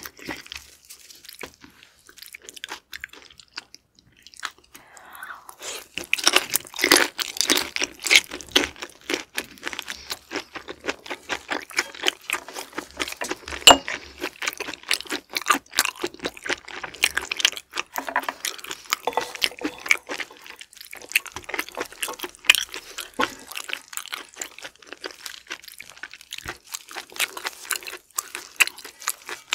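Close-miked chewing of raw shrimp: dense wet clicks and crackles of mouth sounds. They are sparse for the first few seconds, thick through the middle, and thin out near the end.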